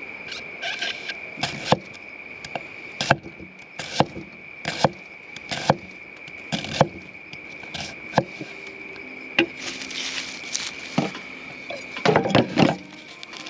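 Steady high-pitched insect drone, with irregular sharp snaps and knocks about once a second and a quick cluster of them near the end.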